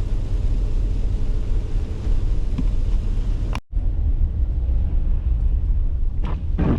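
Steady low rumble of a car's road and engine noise heard from inside the cabin while driving, broken by a short drop-out a little past halfway where the recording is cut.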